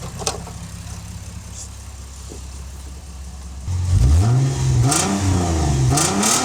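Lexus IS250's V6 idling, then from about four seconds in revving hard, the engine pitch rising and falling several times as the car is driven off. Two short rushes of noise come near the end.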